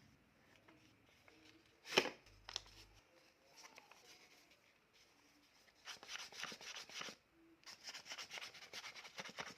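Sheet paper rustling and crinkling as it is handled and creased, in two stretches in the second half, after a single sharp click about two seconds in.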